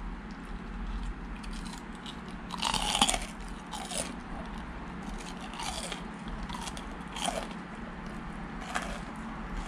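A person biting into and chewing crispy deep-fried hairtail, the batter crunching at irregular moments every second or two, loudest about three seconds in.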